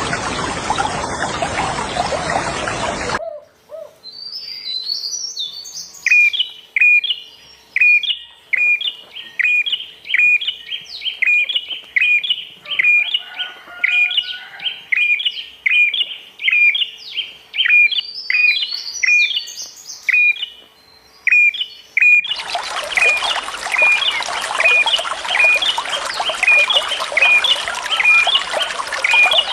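Songbird repeating a short, sharp chirp at an even pace, about one and a half calls a second, with a few higher calls mixed in. Running water rushes loudly at first, cuts off abruptly about three seconds in, and comes back just as suddenly about twenty-two seconds in, under the continuing chirps.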